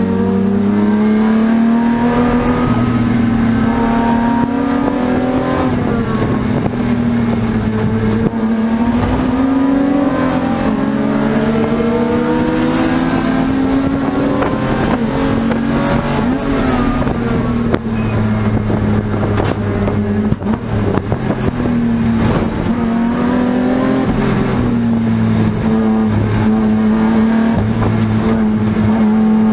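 BMW E36 M3's straight-six race engine running hard, heard inside the cabin, its pitch rising and falling with throttle and gear changes as it laps. The engine drops off briefly a few times about two-thirds of the way through.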